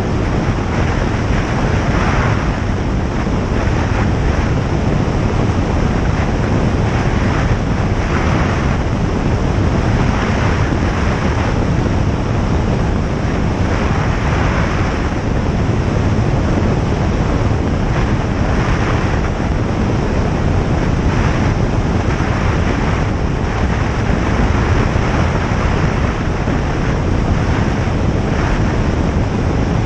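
Single-engine light aircraft's engine and propeller running steadily in flight, heard on board as a loud even drone mixed with rushing airflow.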